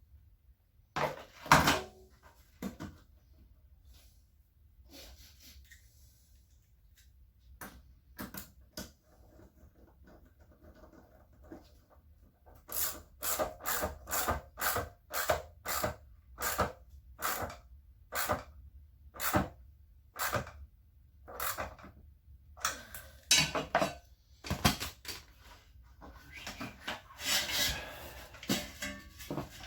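Handling of washing machine parts and tools during reassembly: a single loud knock about a second in, then, from about halfway through, a run of sharp clicks and knocks at roughly one to two a second, with a longer rubbing scrape near the end.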